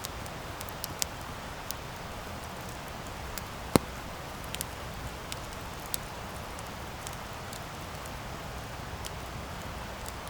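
Wood campfire burning: a steady low rush of the flames with scattered sharp crackles and pops, the loudest pop a little under four seconds in.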